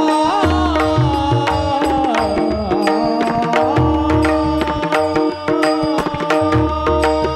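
Devotional kirtan music: a gliding, ornamented sung melody over steady held notes, with hand-drum strokes keeping a regular rhythm. The melodic line is strongest in the first three seconds, after which the held notes and drumming carry on.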